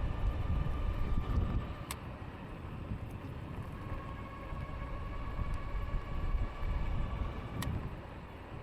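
E-bike riding at speed: the hub motor's steady whine over heavy wind buffeting on the microphone, the whine settling a little lower in pitch about four seconds in. Two sharp clicks, about two seconds in and near the end.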